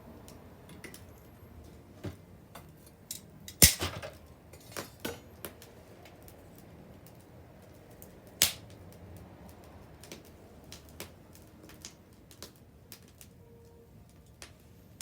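Wood bonfire crackling, with scattered sharp pops at irregular intervals; two are much louder, one a few seconds in and one about eight seconds in.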